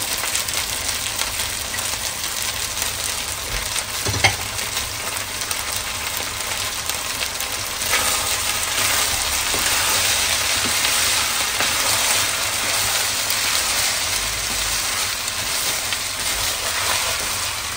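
Fried rice with scrambled egg sizzling in a hot wok while a wooden spatula stirs and scrapes it against the pan, with one sharper knock of the spatula about four seconds in. The sizzle gets a little louder about eight seconds in.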